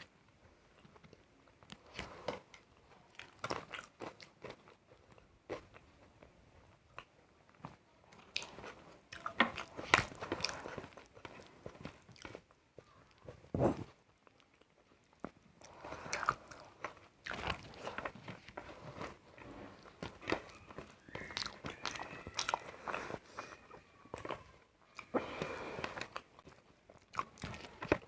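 A person biting and chewing crunchy food close to the microphone, in irregular bursts of crunches and mouth clicks; the loudest crunches come about ten and thirteen seconds in.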